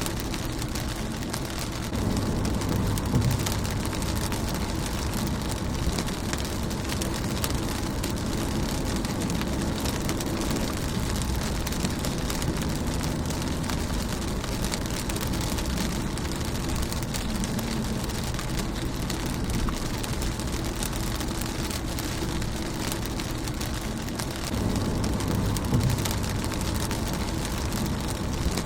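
Rain falling on a car windshield: a steady patter of many drops. A low rumble swells up twice, a couple of seconds in and near the end.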